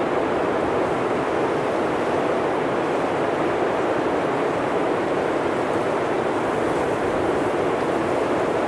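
Blizzard wind blowing steadily: an even rushing noise, mostly in the middle range, with no gusts or breaks.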